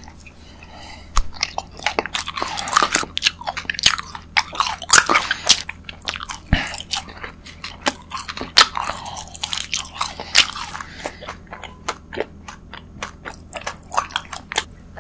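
A person chewing pink sweets close to the microphone, with many irregular crisp crunches and bite clicks.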